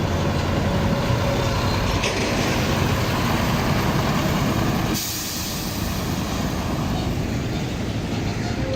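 Heavy trucks passing on a road: a steady, dense rumble, broken about halfway by a short sharp hiss, after which the traffic noise is a little quieter.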